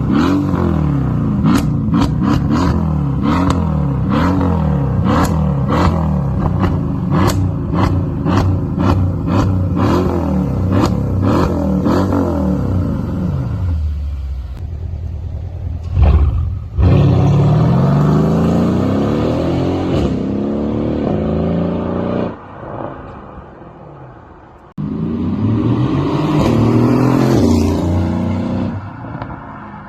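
BMW 240i's turbocharged straight-six revved through a loud aftermarket exhaust. For about the first thirteen seconds there is a quick run of short revs with sharp crackles between them. Then comes a single loud bang, followed by two longer revs that climb and drop away.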